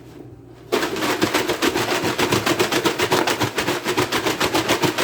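Hot frying oil sizzling and crackling loudly as a piece of chicken coated in flour, egg and crushed hot Cheetos goes in. It starts suddenly about a second in as a dense, rapid crackle.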